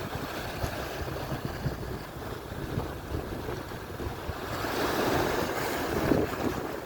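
Atlantic surf washing on the shore, with a wave rushing in louder from about four and a half seconds in and easing off near the end. Wind buffets the microphone throughout.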